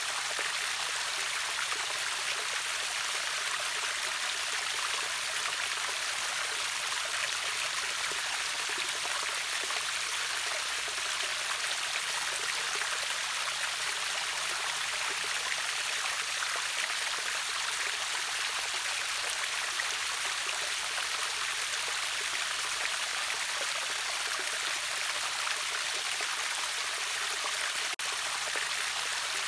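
A river waterfall's water rushing steadily: an even, unchanging hiss with little low rumble.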